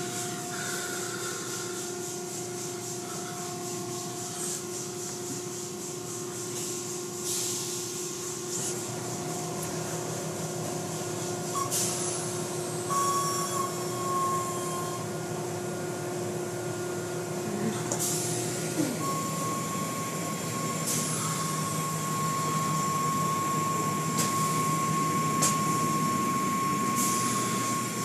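Car wash machinery running: steady motor hums that shift in pitch about nine and nineteen seconds in, over a constant hiss, with a few sharp knocks.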